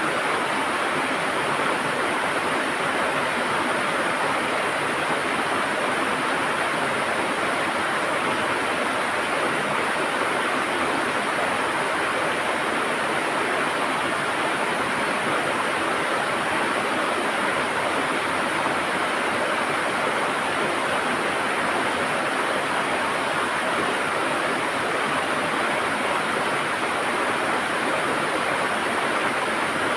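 River water rushing and gurgling over stones, a steady full sound that does not change.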